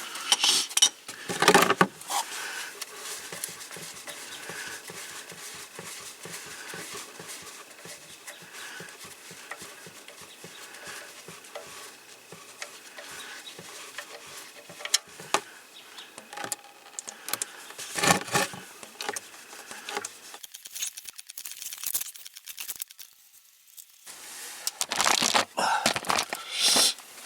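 Engine oil draining from a tractor's opened drain plug into a catch pan, a steady pattering stream, with tool and pan clatter at the start and again near the end.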